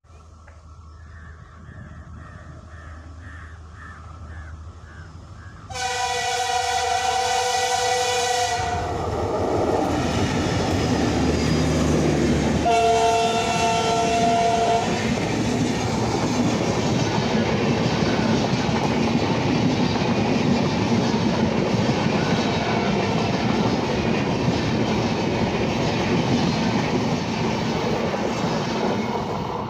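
WDG4 diesel locomotive approaching with a low engine rumble, then sounding its multi-note horn: a blast of about three seconds some six seconds in, and a shorter one about seven seconds later. The passenger coaches then roll past with a steady, loud clatter of wheels on rail.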